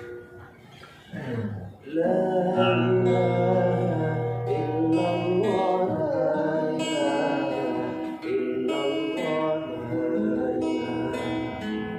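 Acoustic guitar being played, plucked and strummed, quiet for the first two seconds and then playing full chords and melody notes.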